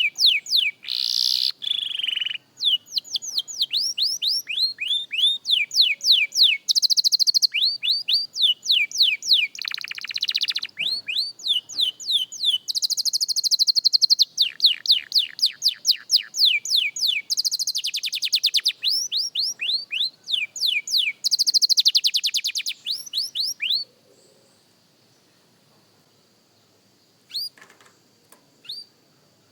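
Young canary singing: a long run of trills built from rapidly repeated falling notes, with the trills switching between faster and slower speeds. The song breaks off about 24 seconds in, leaving only a few single chirps near the end.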